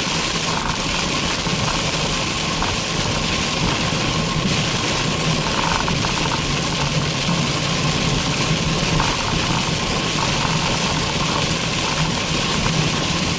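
A car driving, heard from inside the cabin: steady engine and road noise under an even hiss.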